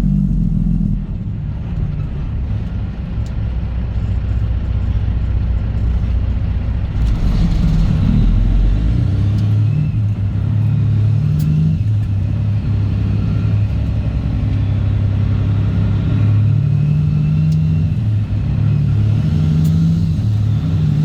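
Straight-piped Cat C15 Acert inline-six diesel in a Kenworth W900 truck running under way, a deep steady rumble whose pitch steps up and down several times as the revs change.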